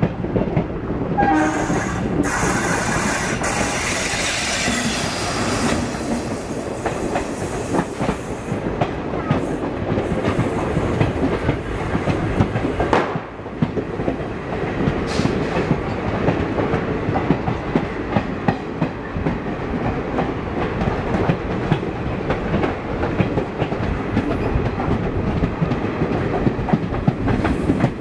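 Steady wheel-on-rail clatter and rumble of a moving passenger train, heard from on board. A train horn sounds for a few seconds near the start. A louder rushing noise lasts until about 13 seconds in and then stops abruptly.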